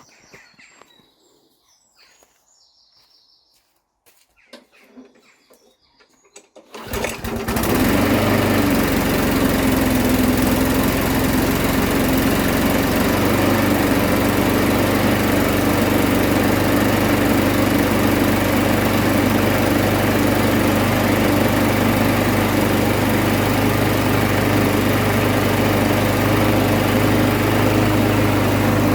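Push lawn mower's small petrol engine pull-started from cold about seven seconds in, catching at once and then running steadily at an even speed: its first test run after being rebuilt.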